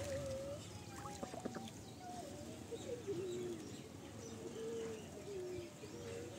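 Bird calls: a string of short, wavering, fairly low-pitched notes, some gliding down, with a few faint clicks about a second in.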